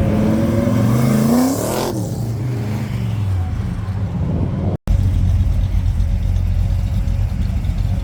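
A car engine revving up over about two seconds, then dropping back. After a sudden cut about halfway through, a car engine runs steadily at low revs.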